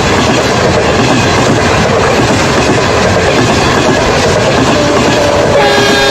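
Train running on the rails, with a loud, dense clatter of wheels over the track that starts abruptly. A steady tone joins near the end.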